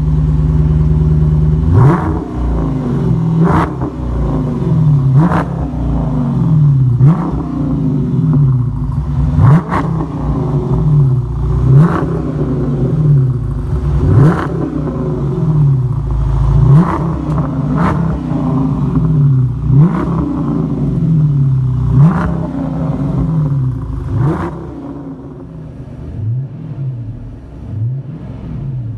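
2009 Dodge Challenger R/T's 5.7-litre Hemi V8 revved again and again through a cat-back exhaust with Street Demon mufflers and a siamese X-pipe: about a dozen sharp blips, each climbing and falling back, roughly every two seconds. Near the end it settles to idle with a few lighter blips.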